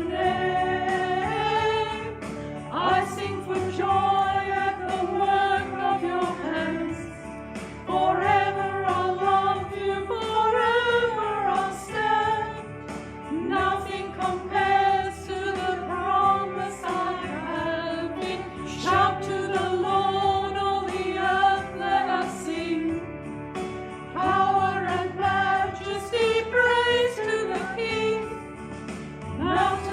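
A small church choir singing a hymn with accompaniment, voices holding long notes.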